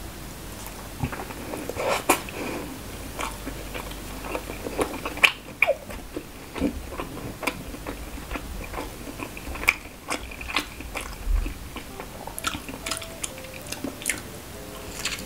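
A person biting and chewing a red street-food hotdog: irregular mouth clicks and smacks, the loudest about two, five and ten seconds in.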